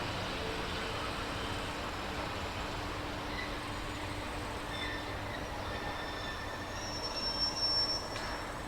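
A train running on the rails: a steady rumble, with thin high-pitched wheel squeal coming in over the second half, loudest just before the end.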